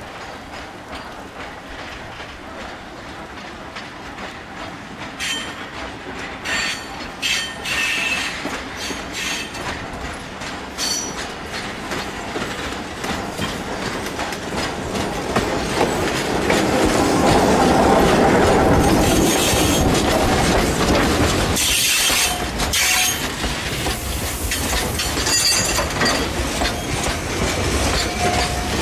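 A narrow-gauge electric locomotive hauling a long train of iron ore hopper wagons approaches on a curve and passes close by, growing steadily louder and loudest about two thirds of the way through. High-pitched wheel squeal from the curve comes and goes, and the wagons' wheels click over the rail joints as they roll past.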